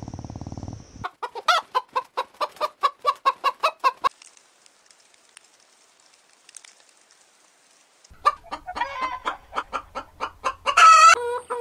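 A hen clucking in quick short pulses, rising to one loud squawk near the end. Earlier there is a three-second run of rapid short calls, then a few nearly quiet seconds.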